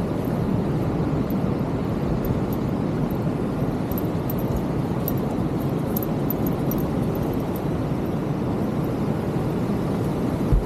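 Steady low rush of ocean surf, mixed with wind buffeting the microphone.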